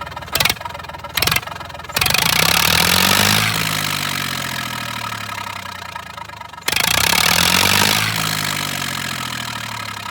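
Massey Ferguson 1035 DI tractor's three-cylinder diesel engine running with its silencer removed, open exhaust, very loud. After a couple of quick throttle blips it is revved up twice, the engine speed falling slowly back toward idle after each rev.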